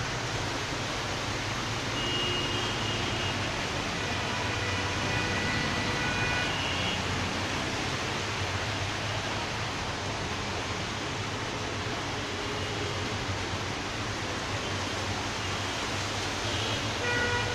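Steady hiss of falling rain. Faint short high-pitched tones sound over it several times from about two seconds in, and again near the end.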